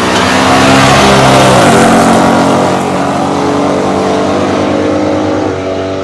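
Two big-block V8 muscle cars, a 1969 Corvette's 427 L88 and a 1968 Dodge Super Bee's 426 Hemi, accelerating at full throttle down a drag strip. The engine note drops sharply in pitch about two seconds in at an upshift, then climbs again, and it gets quieter near the end as the cars pull away.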